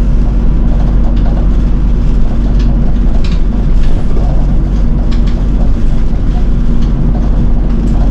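City bus's diesel engine running steadily, with the low rumble of the bus heard from inside the cabin and occasional light rattles.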